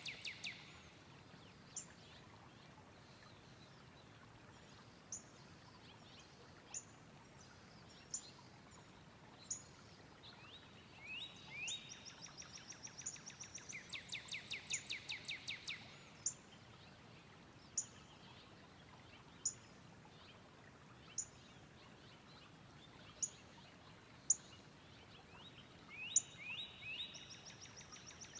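Birds singing: one bird repeats a single sharp high chip about every second and a half, and another song of a few upward-sliding notes running into a rapid even trill comes twice, around the middle and again near the end.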